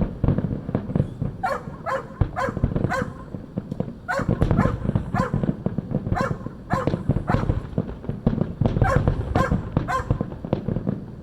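Dogs barking over and over, roughly one to two barks a second, over a continuous low rumble of fireworks going off.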